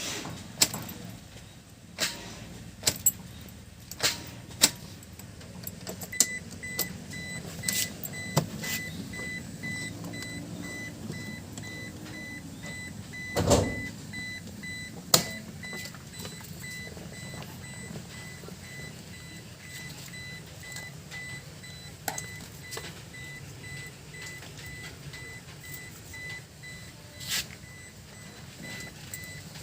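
Scattered clicks and knocks, with one heavier thump midway, and from about six seconds in a high electronic beep repeating rapidly without a break.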